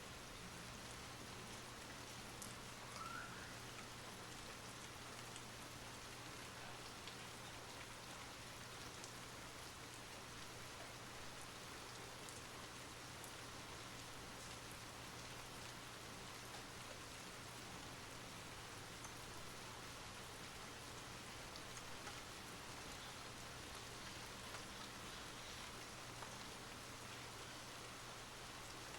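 Steady rain falling, with individual drops ticking on a surface here and there.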